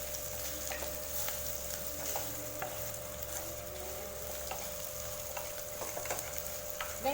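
Spatula stirring roasted peanuts into garlic and onion frying in a kadai: a steady frying hiss with scattered light clicks of the spatula against the pan, over a faint steady hum.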